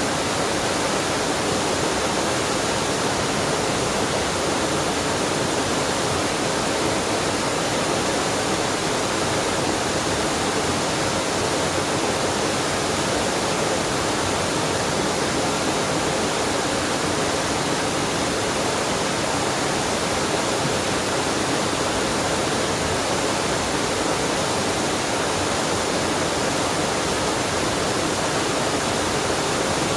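A waterfall on a mountain stream: a steady, unbroken rush of falling water.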